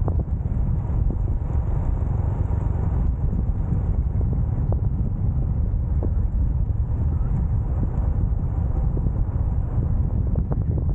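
Wind buffeting the microphone of a moving motorcycle, a steady low rumble with road and engine noise mixed in beneath it.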